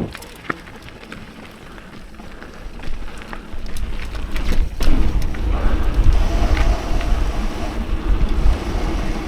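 Mountain bike riding down a forest trail: wind rushing over the microphone, with scattered knocks and rattles from the bike. It is quieter at first and grows louder from about three seconds in as the speed picks up.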